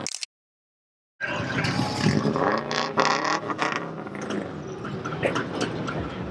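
Car engine running, with clicks and scraping noises around it; the sound drops to dead silence for about a second shortly after the start, then resumes.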